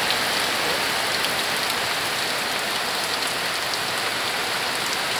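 Heavy rain falling steadily, an even hiss with scattered ticks of single drops.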